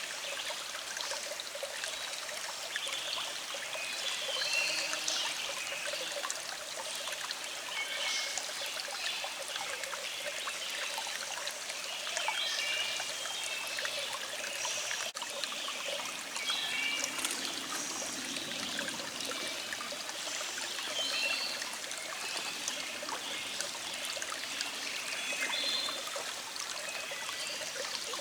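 A small stream trickling and gurgling steadily, with birds singing short, repeated phrases over it.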